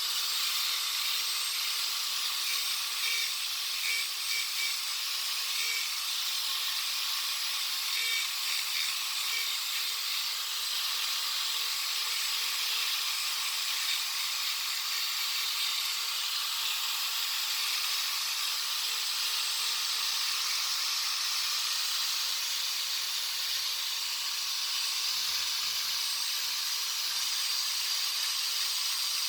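A steady hiss, unchanging throughout, with a few faint high chirps in its first third.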